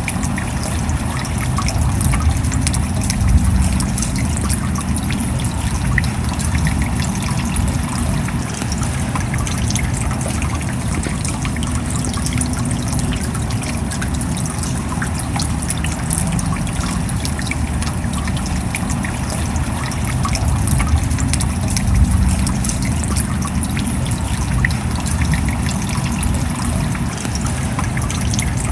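Steady rain: a dense run of small drop ticks over an even, low wash of noise, swelling slightly a couple of times.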